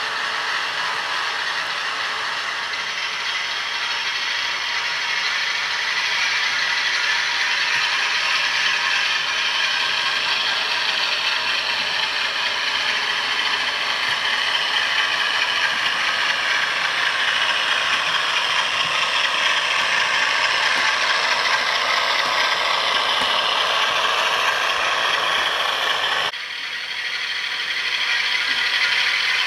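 OO-gauge model Class 47 diesel locomotive running on track: its TTS sound decoder's diesel engine sound comes through the small onboard speaker, mixed with the whir and clatter of the model's motor, gears and wheels. The sound drops off suddenly about 26 seconds in, then builds up again.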